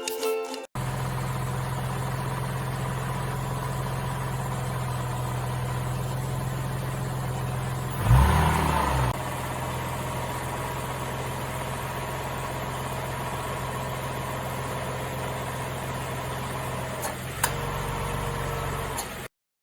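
Freshly overhauled Nissan Fairlady Z (Z33) VQ35DE V6 engine idling steadily, with one brief rev about eight seconds in. A sharp click comes near the end.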